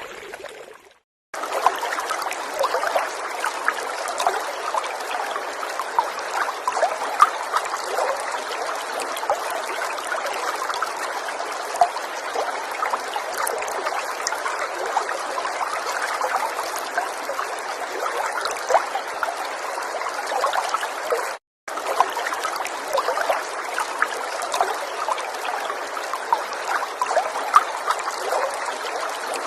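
River water flowing and trickling, a steady babble full of small splashes. It cuts out completely for a moment twice: about a second in, and again about three-quarters of the way through.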